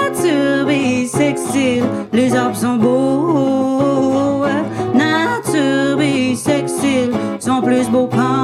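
Live band music: strummed acoustic guitar under a singing voice that slides between notes without clear words, over steady low notes and a regular percussive beat.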